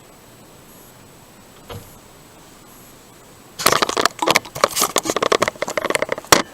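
Quiet room tone, then about three and a half seconds in, loud rapid rattling and knocking: a blocked bedroom door being forced open against the furniture wedged behind it.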